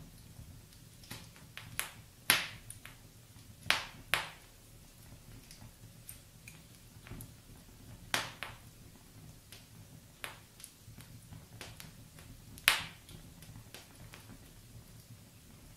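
Wood fire in a fireplace crackling: sharp pops and snaps at irregular intervals, the loudest about two, four, eight and thirteen seconds in, over a faint steady low hum.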